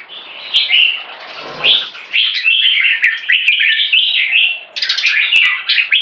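Red-whiskered bulbul singing, a fast, nearly unbroken run of chirping phrases, with a few sharp clicks now and then.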